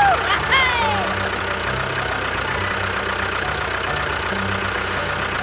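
A small tractor engine running steadily at idle. A few short swooping tones sound at the very start.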